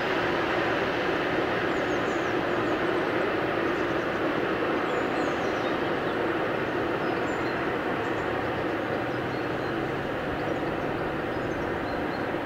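Train running noise, a steady rumble and rush of wheels on rails that slowly fades as the train draws away.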